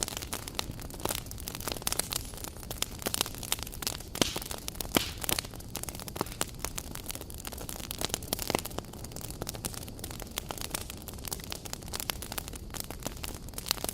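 Wood campfire crackling: irregular sharp snaps and pops over a steady low hiss.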